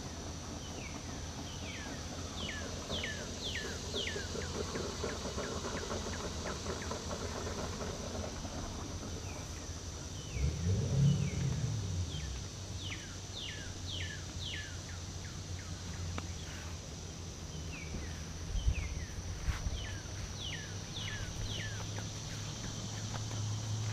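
Outdoor morning ambience: a songbird sings phrases of quick down-slurred whistled notes in two bouts, over a steady high insect drone and a low hum. A brief low rumble comes about halfway through.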